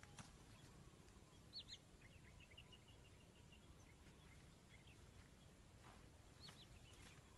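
Near silence broken by faint bird chirps: two short rising-and-falling calls about one and a half seconds in, a quick run of small chirps just after, and another pair of calls near the end.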